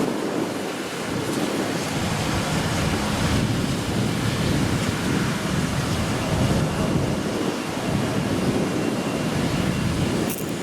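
Strong typhoon wind buffeting the microphone: a steady, rumbling rush that swells and eases in gusts.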